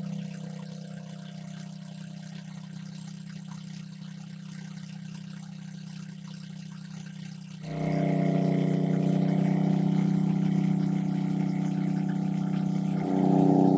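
A small engine running steadily with an even hum; it turns suddenly louder and fuller about eight seconds in and again near the end.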